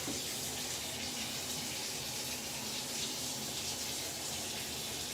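Tap water running steadily into a sink, an even rushing hiss.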